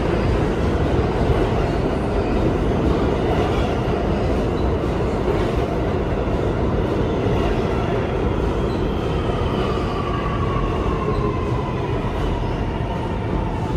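New York City subway train running through an underground station, a loud steady rumble of wheels on rail. Over the second half a motor whine slowly falls in pitch.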